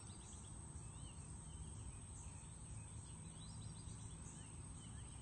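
Quiet natural outdoor ambience: faint small-bird chirps scattered throughout, over a steady low background rumble.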